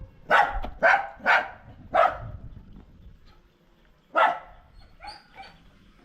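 Dog barking excitedly as its owner arrives home: four sharp barks in the first two seconds, then one more about four seconds in and a few fainter ones after.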